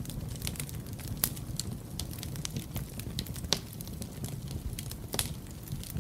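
Wood fire crackling and popping: irregular sharp snaps over a steady low rumble of flames, with a few louder pops, one a little after a second in, one about halfway and one near the end.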